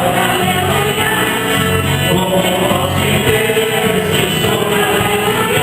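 Mass song group singing with instrumental accompaniment, at a steady level.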